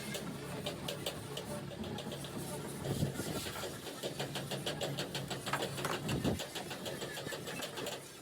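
An engine running steadily, with rapid ticking over it and two heavier knocks, about three and six seconds in.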